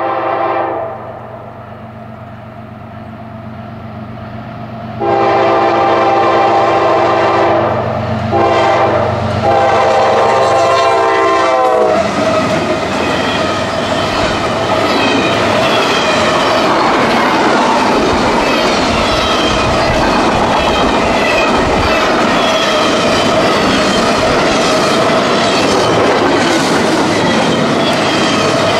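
Freight train horn: a blast ends about a second in, then a long blast with a short break, over the locomotive's steady diesel drone. From about twelve seconds in, the train passes close by, its cars clattering with a rhythmic clickety-clack of wheels over the rail joints.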